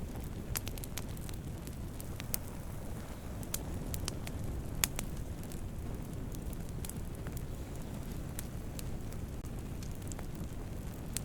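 Wood fire burning with a steady low rumble and frequent sharp crackles and pops at irregular intervals, one louder pop about five seconds in.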